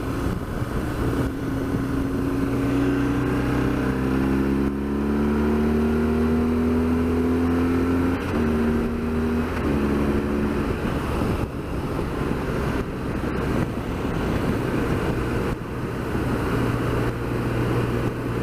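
BMW R1200GS Adventure flat-twin engine pulling under acceleration, its note rising, then dropping twice in quick steps about eight and ten seconds in as it shifts up, before settling to a steady cruise. Wind rushes over the microphone throughout.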